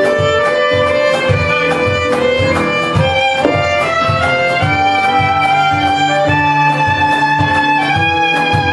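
Live folk band playing an instrumental passage: a violin carries a held, sliding melody over a steady low beat.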